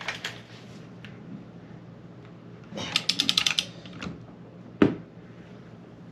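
A torque wrench ratcheting on a bolt: a quick run of about eight clicks about three seconds in, then a single sharp knock a little over a second later.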